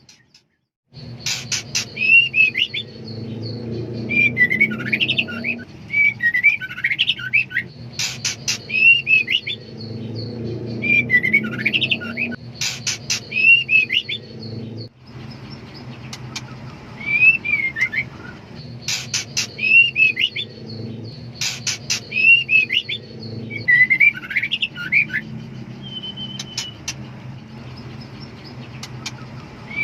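Female white-rumped shama calling: short whistled notes that rise and fall, mixed with sharp clicking notes and repeated in bouts, over a low steady hum. These are the calls of a female in breeding condition calling for a male.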